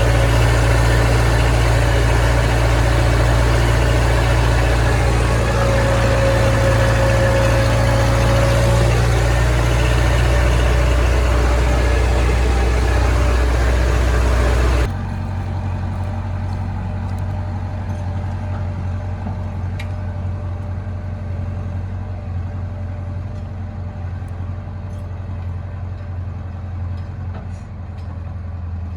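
Heavy diesel engine running steadily. About halfway through the sound cuts abruptly to a quieter engine, still running, with a few faint knocks.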